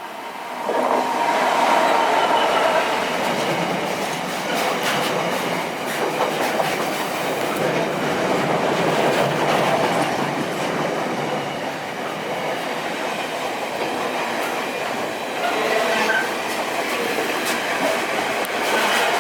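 Train passing close by on the rails, its running noise rising sharply about a second in and then holding steady, with wheels clicking over rail joints.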